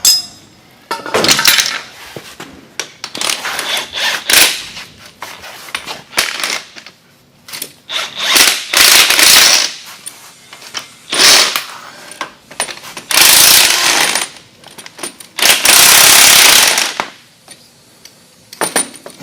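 A power tool run in about six loud bursts of a second or so each, with short pauses between; the longest burst comes near the end.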